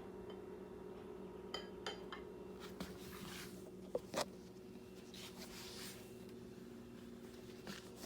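Scattered clinks, knocks and short scrapes of dishes and utensils being handled, over a steady low hum.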